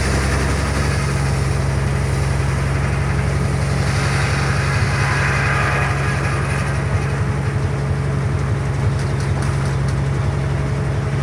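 Frick circular sawmill running with its power unit droning steadily; midway a louder, higher-pitched rush of noise swells and fades as the blade cuts through a black walnut log.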